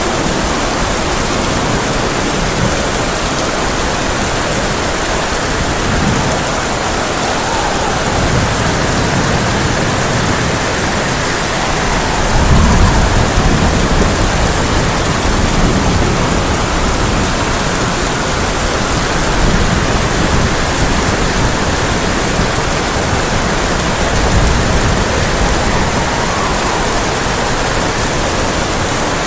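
Heavy rain on a tin roof, a steady dense hiss, with low thunder rumbling under it and swelling loudest about twelve seconds in.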